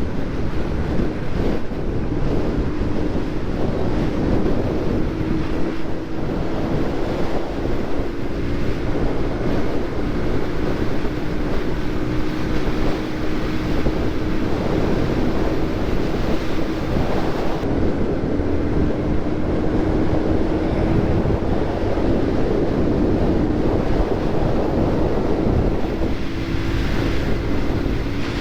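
Wind rushing over the microphone on a moving motorcycle, with a steady engine hum beneath that drifts a little in pitch.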